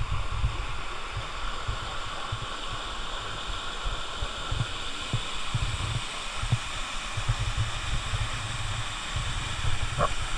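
Waterfall pouring: a steady rush of falling water with irregular low buffeting rumbles on the microphone.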